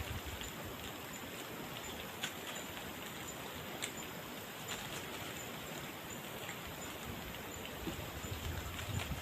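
Steady rushing water, an even hiss with scattered sharp drips or taps.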